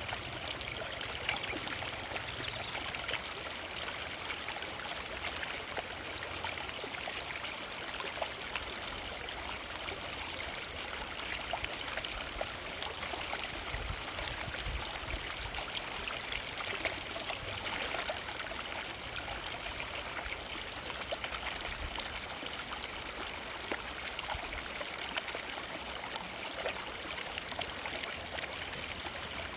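Forest river flowing steadily, with the splashing and trickling of water running over stones and branches.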